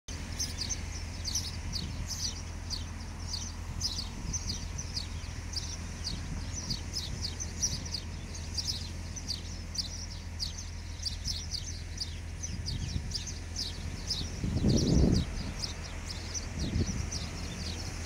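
Small birds chirping in trees, a dense run of short high chirps several a second, over a steady low hum. A brief low rumble rises about three-quarters of the way through.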